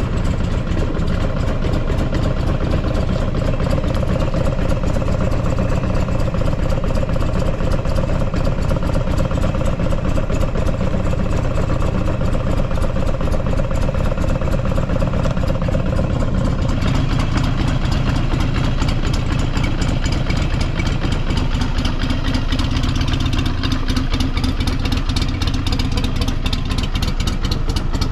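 Buell XB12SCG Lightning's air-cooled 1203 cc V-twin idling steadily with an even pulse, its note shifting slightly about seventeen seconds in. It runs with no abnormal noises.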